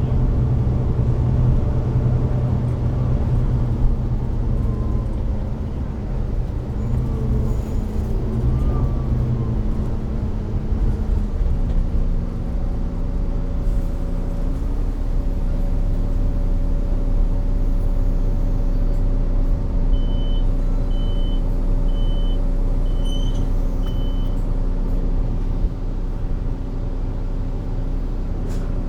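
Volvo B9TL bus's D9B six-cylinder diesel engine running, its note dropping about a third of the way in and then holding steady at a lower, even pitch. About two-thirds through, five short high-pitched electronic beeps sound in a row.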